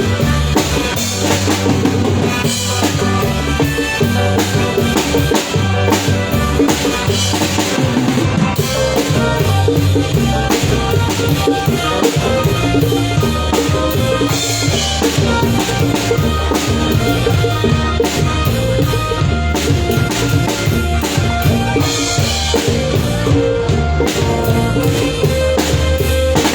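A band playing a song with a drum kit keeping a steady beat under pitched instruments, loud and without a break.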